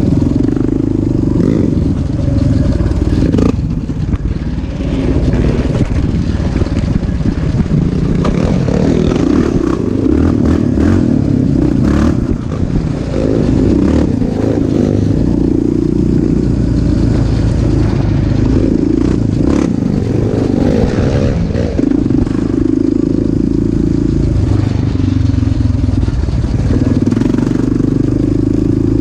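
An off-road motorcycle or quad engine runs loud and continuous, rising and falling in pitch as the throttle opens and closes, with some clatter over it.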